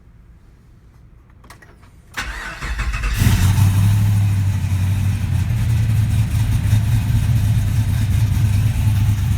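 1968 Chevrolet C10 pickup's engine being started: a few faint clicks, then the starter cranks for about a second before the engine catches and settles into a steady idle.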